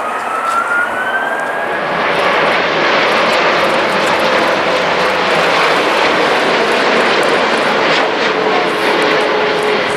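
Jet airliner's engines passing close: a whine rising in pitch over the first two seconds, then a louder, steady rush of engine noise from about two seconds in.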